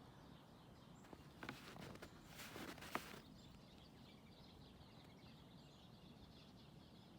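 Two faint crunching snowshoe steps in snow in the first three seconds, then the steps stop and many faint, high bird chirps carry on.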